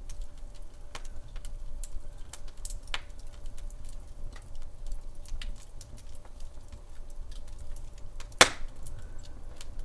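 Wood fire in a fireplace crackling: scattered small snaps and pops over a low rumble, with one much louder pop near the end.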